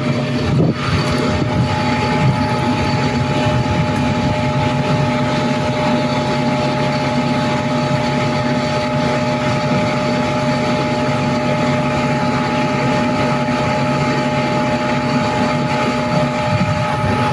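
Fire department aerial ladder truck's engine running steadily, with several steady whining tones over it.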